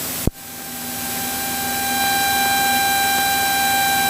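Cockpit noise of a Cessna 172SP climbing out at takeoff power: the Lycoming IO-360 engine and propeller drone under a steady hiss, after a sharp click about a quarter second in.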